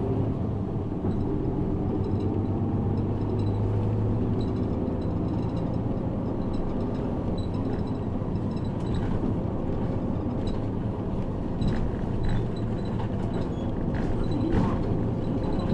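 Inside a route bus under way: steady engine and road noise, with a few short rattles and clicks from the cabin.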